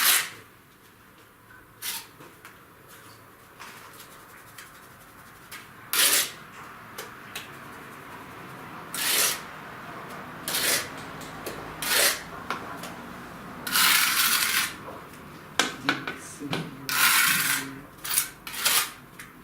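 A mason's trowel scraping and spreading mortar on brick in irregular strokes, the longest about a second long, with a few sharp knocks of a trowel or hammer on brick.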